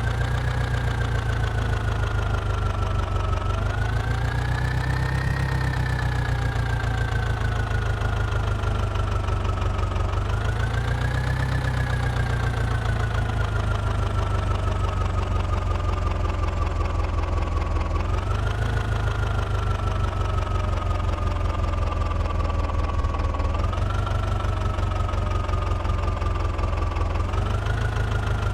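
Mahindra tractor's diesel engine running, its pitch jumping up quickly five times and sinking slowly after each.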